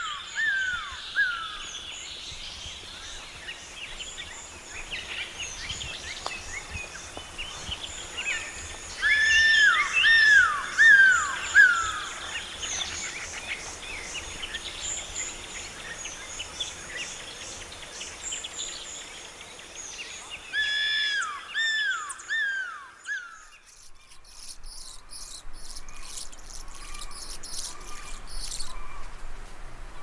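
Several birds calling and singing, with many high chirps. Three times a short run of four falling whistled notes stands out. Near the end this gives way to a fast, high, buzzy chatter.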